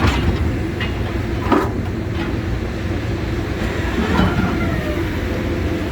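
Diesel engine of a scrapyard magnet material handler running steadily under load while it lifts cast iron scrap, with a couple of metal clanks in the first two seconds.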